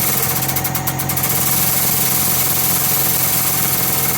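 Air-powered shop press running steadily under air as its ram is lowered slowly onto a split bronze bush to press it into a gear. It makes a constant mechanical hum with air hiss.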